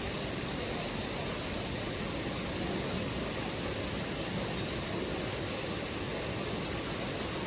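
Steady rushing of a mountain stream's flowing water, an even hiss with no change.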